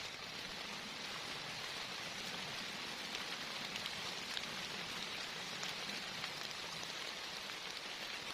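Heavy rain falling steadily, a dense even hiss with scattered sharper drop patters on nearby surfaces.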